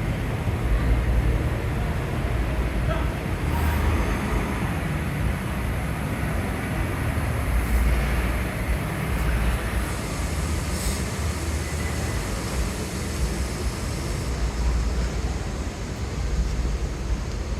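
City street traffic noise: a steady low rumble of passing vehicles, with a few faint ticks and clatters on top.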